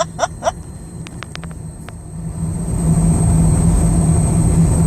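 Car driving, heard from inside the cabin: a steady low engine and road hum that grows louder about two and a half seconds in. A short burst of voice at the very start and a few faint clicks about a second in.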